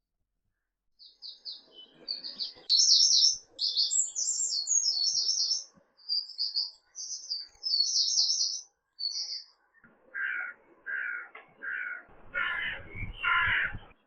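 Birdsong: a small songbird singing quick, high-pitched chirping phrases, then a larger bird giving five harsh calls near the end, each louder than the last.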